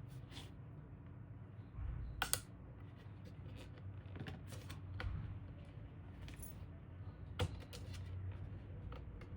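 Light clicks and taps of small hard parts being handled, with a sharp double click about two seconds in and another sharp click near seven and a half seconds, over a low steady hum.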